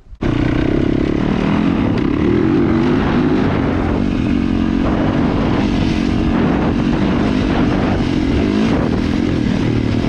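KTM dirt bike engine running under way, its note wavering up and down with the throttle. It cuts in abruptly just after the start.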